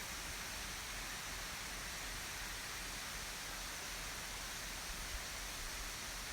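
Steady, even rushing murmur of a mountain stream.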